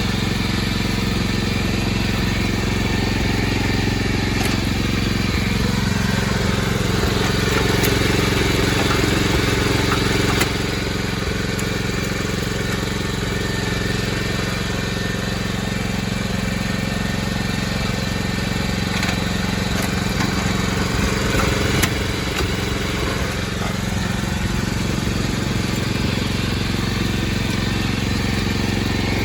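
Mitsubishi MMR60/MMR65 My Boy tiller's single-cylinder GM181L OHV petrol engine running steadily. It speeds up slightly between about six and ten seconds in, then drops back suddenly.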